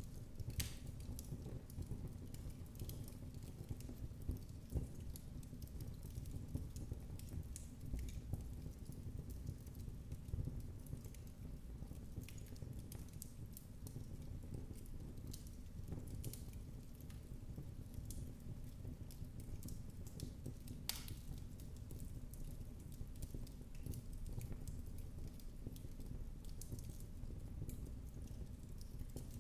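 Wood fire crackling in a fireplace: a steady low rumble of flames with scattered sharp pops and snaps, two louder pops about a second in and about twenty seconds later.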